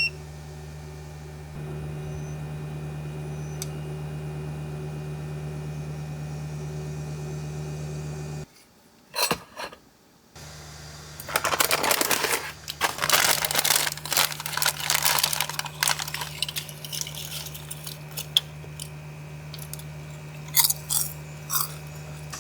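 A steady low mechanical hum. After a short break with a couple of clicks, irregular crinkling and rustling with small clinks, like packaging or utensils being handled.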